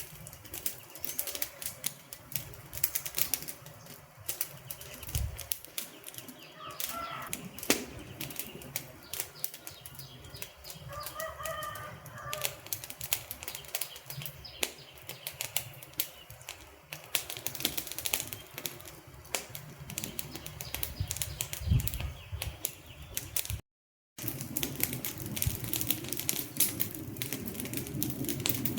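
Wood fire crackling, with a steady stream of irregular sharp snaps and pops. A few faint bird chirps sound around a quarter and a third of the way in, and the sound cuts out completely for about half a second near the end.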